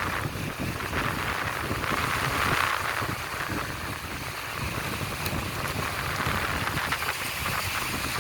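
Sea surf breaking and washing up on the beach: a steady rushing noise that swells about two to three seconds in.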